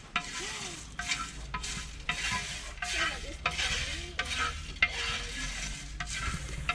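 Coffee beans being stirred by hand in a roasting pan: a rhythmic scrape and rattle, about one and a half strokes a second.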